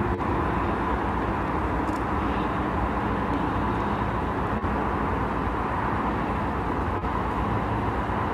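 Steady outdoor background rumble with an even hiss and no distinct events.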